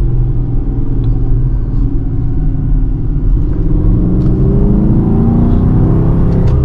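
Dodge Charger R/T's 5.7-litre Hemi V8 heard from inside the cabin as the car is driven. It drones steadily at first, then from about halfway through the engine note rises smoothly as the car accelerates.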